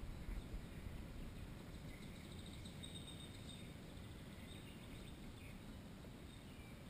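Faint, high bird calls, including a short run of quick repeated notes about three seconds in, over a low steady background rumble.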